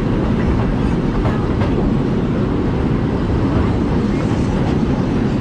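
Steam railroad train running along the track, heard from aboard a passenger car: a steady rumble of wheels on rails with a few faint clicks.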